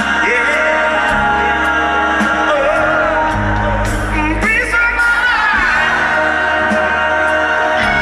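Live pop-funk band performance: a voice sings a sliding, wordless line over sustained band chords and a steady bass.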